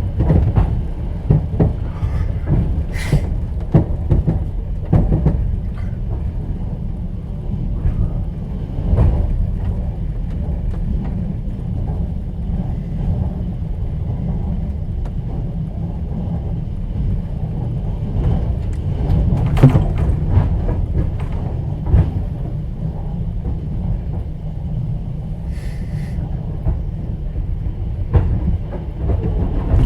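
Passenger train car interior while moving: a steady low rumble with the clatter and knocks of the wheels over the rail joints, the knocks bunching together near the start, around the middle and near the end.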